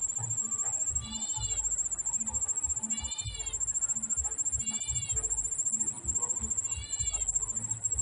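A steady high-pitched insect trill runs throughout, the loudest sound, while a bird gives a short mewing call about every two seconds, five times, each note rising and falling. The mewing is the call that gives the prenjak meong (prinia) its name, heard at its nest with a hungry chick.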